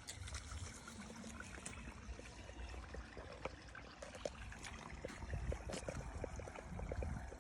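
Water trickling and babbling, like a small stream, with many small splashy ticks over a low, uneven rumble.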